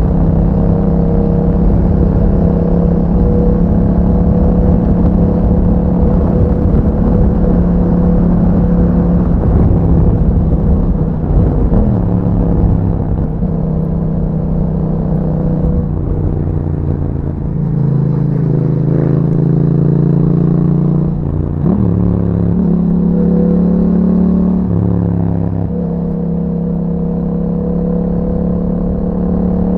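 2021 Yamaha MT-07's parallel-twin engine through an Akrapovic exhaust with dB killer inserts, running steadily under way. In the second half the engine note drops and picks up again several times, as with gear changes or easing off the throttle.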